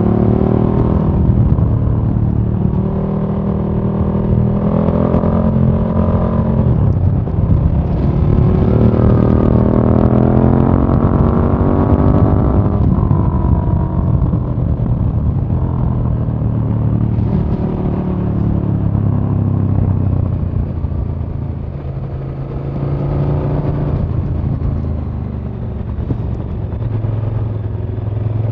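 2017 KTM 1290 Super Duke R's 1301 cc V-twin on the move. Its revs climb twice, each climb ending in a sudden drop, the second about thirteen seconds in, and then it runs at lower, steadier revs.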